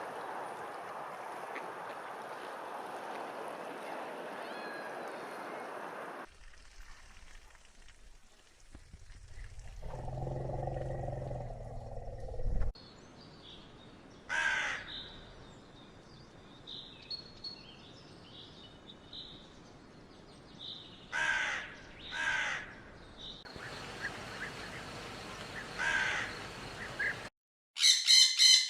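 A run of separate animal sound clips: first a steady rushing noise, then a low pitched call lasting a few seconds, then short harsh bird calls repeated four times, with faint high chirps between them.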